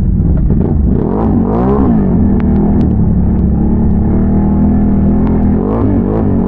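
Can-Am Renegade ATV with a big-bore 1180 V-twin engine running under way. The engine note rises and falls about one to two seconds in and again near the end, and holds steady in between.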